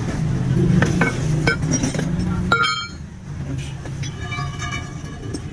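Several sharp metal clinks, the loudest about two and a half seconds in and ringing briefly, over a low steady engine rumble that drops away soon after.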